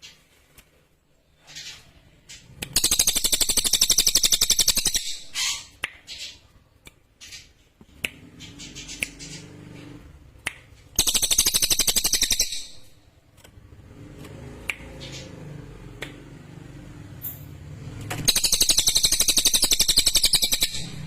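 Cililin bird singing three loud, very fast, high-pitched trills, each about two seconds long, with a few short clicks between them.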